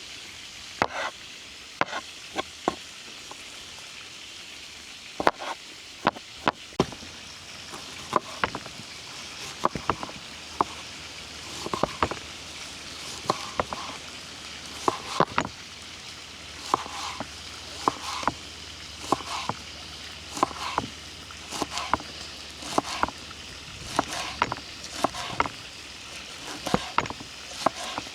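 Food sizzling on a hot saj while a utensil stirs it, clacking and scraping against the metal pan. The clacks come about once a second for most of the stretch, with a quiet gap of a few seconds early on.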